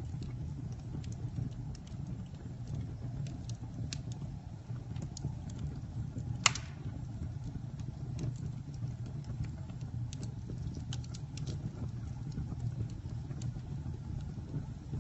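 Campfire burning: a steady low rumble of the flames with scattered crackles, and one loud pop about six and a half seconds in.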